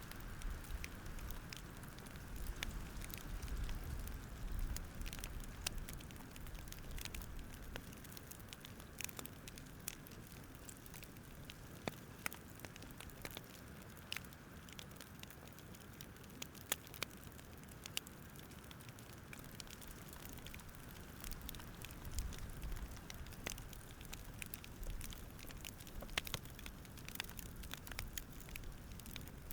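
Campfire crackling, with irregular sharp pops and snaps over a soft steady hiss, and a low rumble that swells and fades twice.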